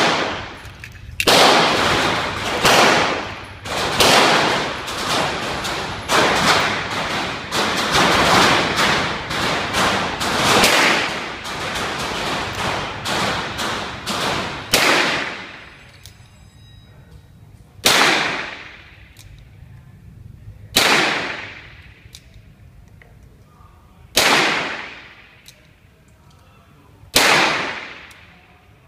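.38-calibre revolver gunshots, sharp reports each with a ringing decay. A run of shots comes about one a second, then four single shots about three seconds apart.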